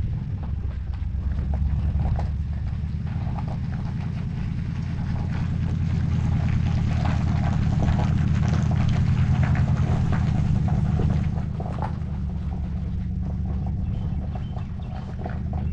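An engine running with a steady low rumble. It grows louder from about six to eleven seconds in, then eases. Light rattling knocks sound over it.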